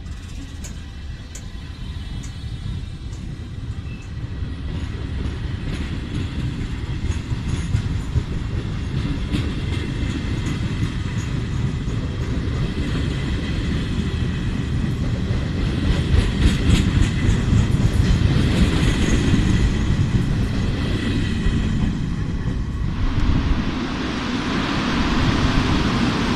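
Passenger train running past close by: a steady rumble of wheels on rails that grows louder, with clicks over the rail joints and a faint high whine. About 23 s in the sound changes to a broader rushing as another train passes.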